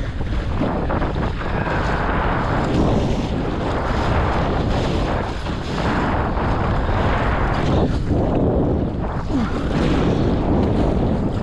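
Wind buffeting the microphone over the rush and splash of water along the hull of a small sailing dinghy under way.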